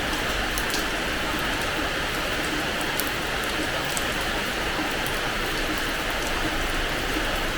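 Steady rain falling on a hard terrace floor: an even hiss of rain with scattered sharp taps of single drops striking close by.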